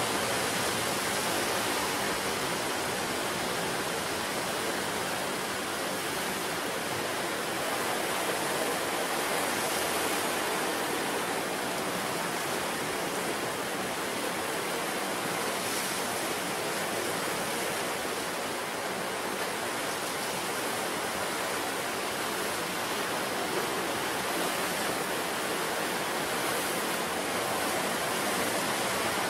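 Ocean surf washing onto the shore in a steady, dense rush of waves, with no single breaker standing out.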